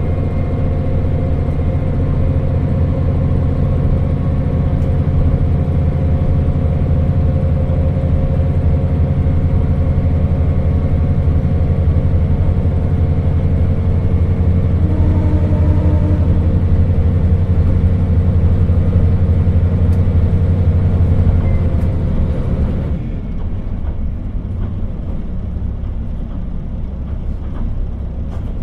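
Cab-interior running sound of the KiHa 40 diesel railcar: its diesel engine drones steadily under power with the rumble of the wheels on the rails. About 23 seconds in the engine note drops away to a quieter, duller rumble as the throttle is shut and the railcar coasts.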